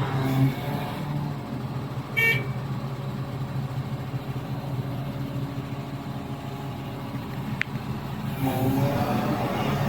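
Heavy diesel engine running steadily, with a short high-pitched toot about two seconds in.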